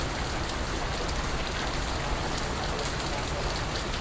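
Steady rain falling, with scattered individual water drips ticking through it.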